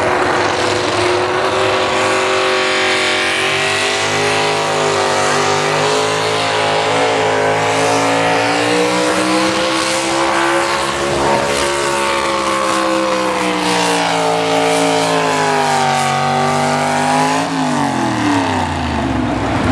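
Naturally aspirated two-wheel-drive pulling truck's engine running hard, pulling the sled down the track, its pitch wavering up and down. Near the end the revs fall off sharply as the pull ends.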